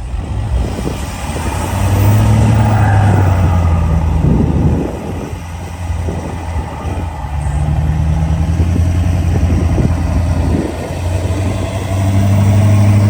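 Pickup truck engine and exhaust driving in soft beach sand, with a steady low drone that swells three times under throttle and eases between.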